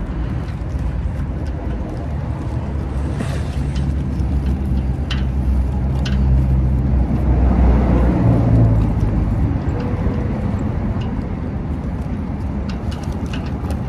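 Low rumble of a nearby motor vehicle's engine, swelling about halfway through and then easing off, with a few light clicks.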